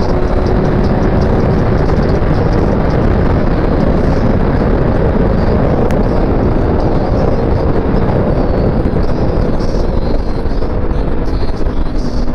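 Kawasaki ZX-6R 636 inline-four running at speed while riding, its note faint under heavy wind rush on the helmet microphone.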